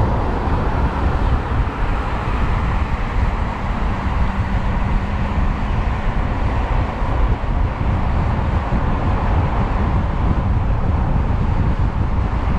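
Steady wind buffeting the microphone and road noise while riding the 72-volt electric motorcycle, with a faint steady hum for a few seconds in the middle.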